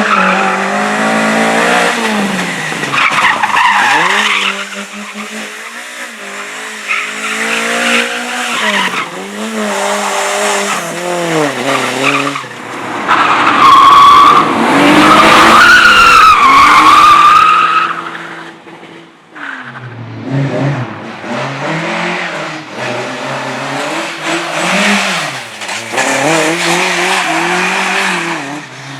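Race car engines revving hard, rising and falling through the gears as cars are driven around the course. About halfway through comes the loudest part: tyres squealing in a wavering, high-pitched skid for several seconds.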